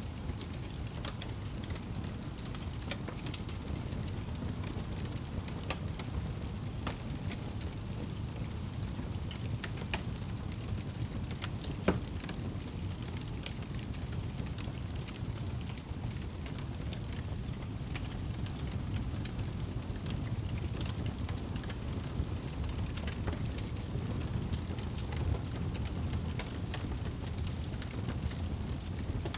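Wood fire burning in a fireplace: a steady low rumble of flames with scattered crackles and small pops throughout, and one sharper pop near the middle.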